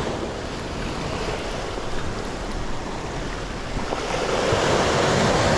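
Sea surf washing against a rocky shore, with wind buffeting the microphone; a wave swells louder about four and a half seconds in.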